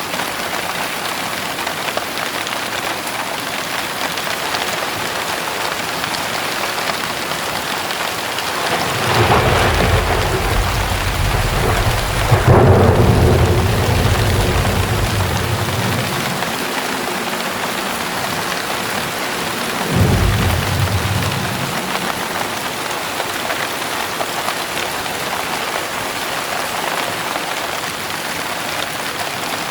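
Heavy rain falling steadily. About nine seconds in, a long roll of thunder builds to a sharp crack and dies away over several seconds, and a shorter rumble of thunder follows about two-thirds of the way through.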